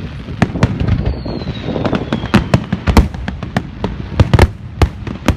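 Fireworks going off: a rapid, irregular run of loud bangs and crackling pops, several a second, with a falling whistle about a second in.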